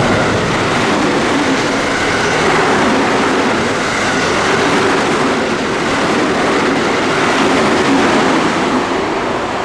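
A JR West train passing through the station without stopping: a loud, steady rush of wheels on rail and air, easing slightly near the end.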